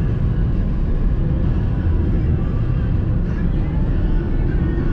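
Steady low rumble of a car driving: road and engine noise heard from inside the moving vehicle.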